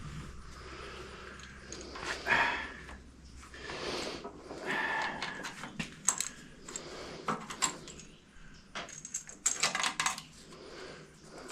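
Irregular metallic clinks and rattles of hand tools and small metal parts being handled while a hydraulic cylinder's hose and clamp are fitted, with some rustling in between.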